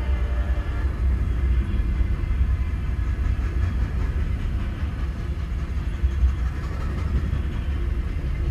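Freight train cars rolling past on the rails: a steady low rumble, heard from inside a stopped car.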